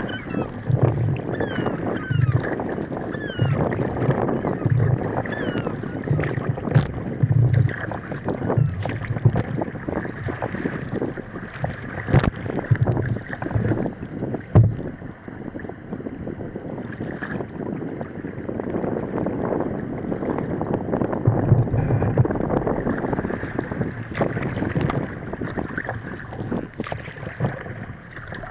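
Water splashing and slapping against a sea kayak's hull as it is paddled through light chop, with short low thumps that come and go in an uneven rhythm and wind buffeting the microphone.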